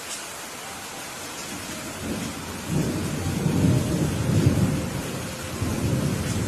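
Steady rain falling, with a roll of thunder rumbling up about two seconds in, loudest midway, and fading out near the end.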